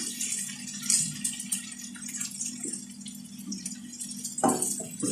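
Chicken pieces sizzling and crackling in hot oil in a frying pan, with a metal spatula scraping and tapping the pan now and then, over a steady low hum. There is a brief louder sound near the end.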